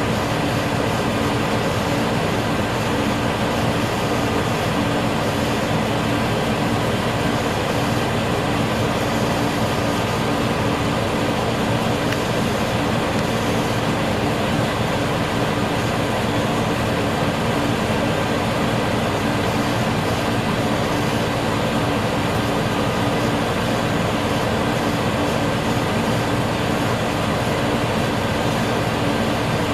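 Diesel railcar idling steadily with a constant low hum, heard from inside the passenger cabin while the train stands at a station.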